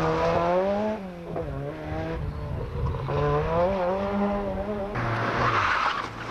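Rally car engine revving hard, its pitch climbing and falling again several times, then dropping lower about five seconds in.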